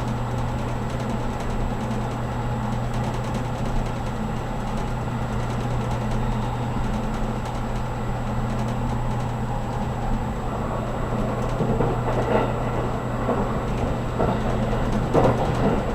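Steady cabin noise inside a JR Kyushu 783 series electric limited-express car: an even low hum under a rumbling wash of running noise, with a few short knocks in the last few seconds.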